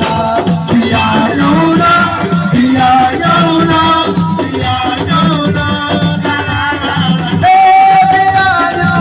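Live assiko band music: a voice singing over a steady drum rhythm, with one long held note near the end.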